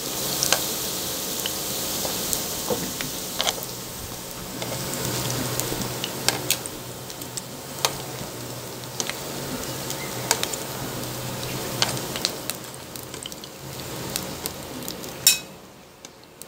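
Sweet potato chunks sizzling as they fry in oil in a non-stick wok. Metal tongs click and tap against the pan many times as the pieces are lifted out. The sizzle drops away near the end.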